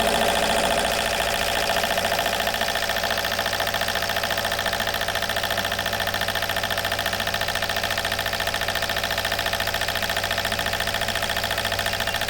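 Volvo Penta MD6A two-cylinder marine diesel running steadily under way, with a fast, even pulsing. The engine has just been rebuilt and is on a test run.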